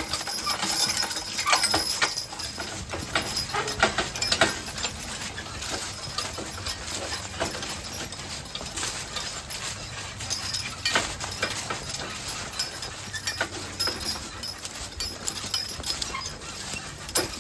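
Draft horses walking, their hoofbeats falling as irregular clops mixed with scattered clicks and knocks.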